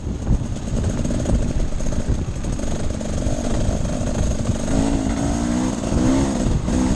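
Off-road motorcycle engine running under load over a dense, steady low rumble. From about three seconds in, its pitch rises and falls several times as the throttle is opened and closed.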